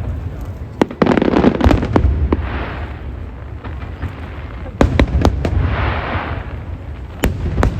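Aerial fireworks shells bursting. Sharp bangs come in quick clusters about a second in, around five seconds in and near the end, and a hissing rush follows the first two clusters.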